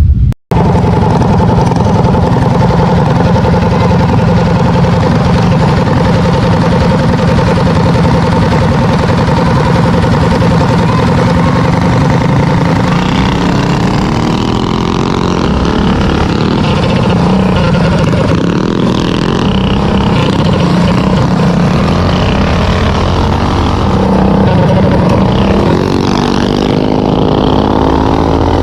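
Minibike engines running hard in a race, several at once, their pitch rising and falling as they rev and ease off. One engine revs up near the end.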